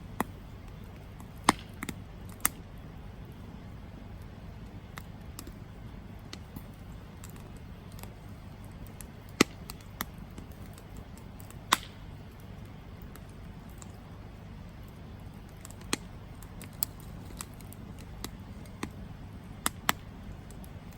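Wood campfire burning: irregular sharp crackles and pops, a few loud ones among fainter ticks, over a steady low rumble of the flames.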